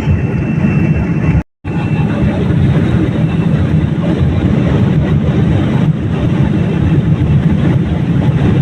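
Steady cabin noise of a Boeing 787 airliner: engine and airflow rumble, strongest in the low range. It drops out completely for a split second about one and a half seconds in.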